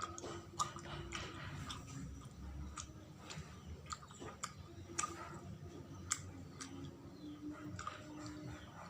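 Close-up chewing of sawella, a sticky glutinous-rice and coconut snack, with irregular sharp mouth clicks.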